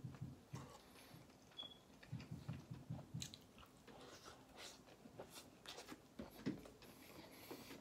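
Faint close-up chewing and biting on a soft grilled chicken taco: irregular wet clicks and smacks of the mouth.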